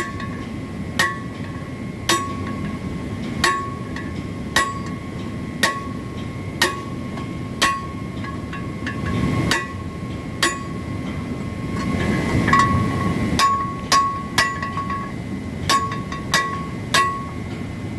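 Hammer blows on the steel parts of a centrifugal pump being stripped to remove its impeller: sharp metallic knocks about once a second, each leaving a ringing tone.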